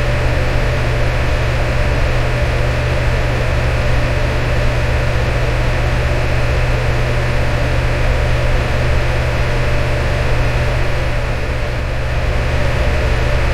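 Electric fan running steadily: an even rush of air over a low motor hum, with a faint steady tone above it.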